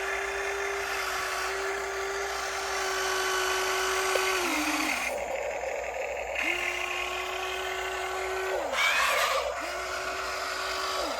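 RC excavator's hydraulic pump running in three spells, a steady whine that spins up as the controls are worked and winds down when they are released, over a constant hiss.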